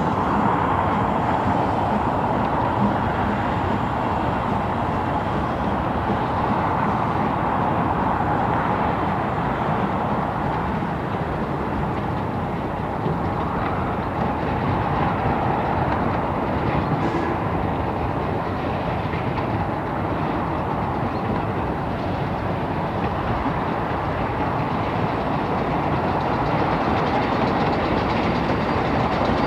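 Narrow-gauge train running along the track: a steady rumble of wheels on rail, even in level throughout.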